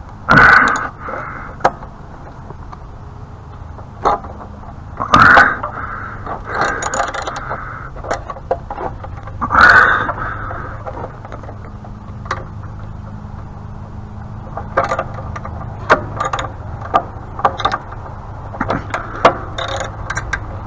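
Hand ratchet and socket working a stuck fastener on a pressure washer: scattered ratchet clicks and metal scraping as the socket slips, with a few louder bursts and a faint steady low hum underneath. The slipping is the fastener head rounding off.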